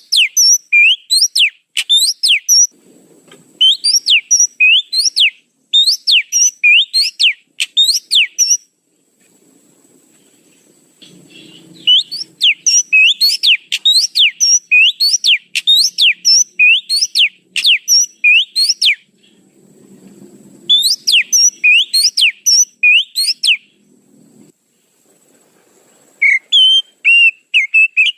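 Oriental magpie-robin (kacer) lure call: rapid series of sharp, rising whistled notes, several a second, in bouts of a few seconds broken by short pauses.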